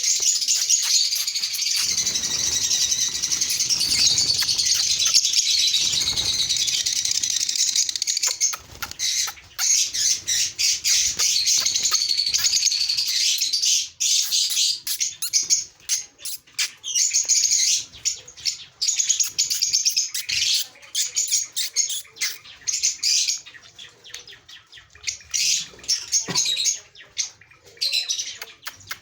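A group of small caged birds chirping and chattering in high, shrill calls that overlap into a continuous din, then break up into short bursts of calls after about eight seconds.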